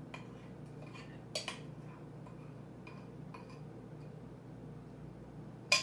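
Cups and small containers being handled on a tabletop while colouring is added to homemade paint: a few light, separate clicks and clinks, the sharpest just before the end.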